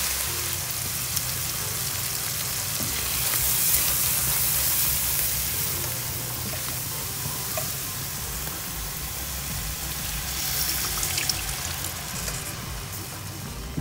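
Mushrooms and onions sizzling in butter in a frying skillet, stirred with a spatula, with a few small clicks of the spatula against the pan.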